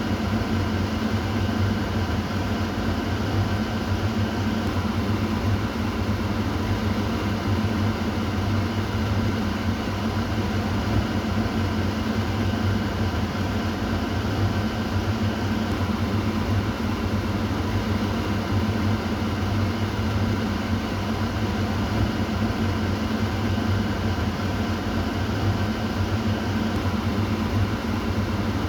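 Kitchen exhaust fan running steadily: an even whooshing of air over a low motor hum.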